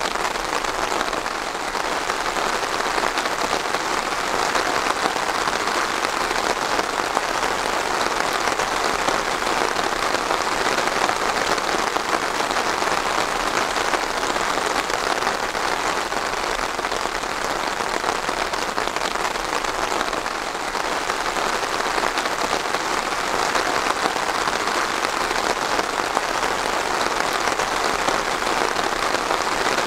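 Steady rain falling and pattering on a surface, a dense even hiss of many drops.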